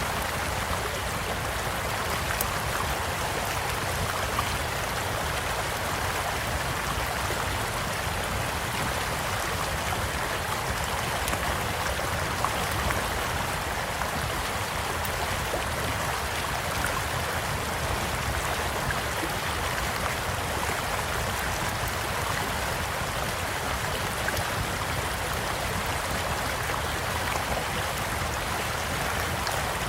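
Steady rushing and babbling of a shallow stream, with a few faint, scattered crackles from a wood campfire.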